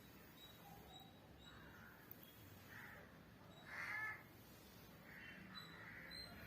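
Near silence with a few faint bird calls, the loudest a short call about four seconds in.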